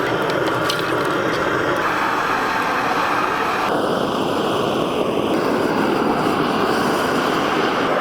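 A loud, steady rushing noise with no clear tone or rhythm.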